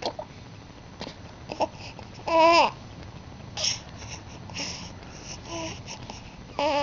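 A baby babbling: short scattered vocal sounds, with a longer wavering squeal a little over two seconds in and another starting near the end.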